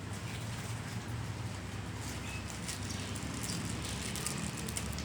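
A baby chewing crisp kerupuk crackers: a run of small crackly crunches, thickest from about two seconds in, over a steady low hum.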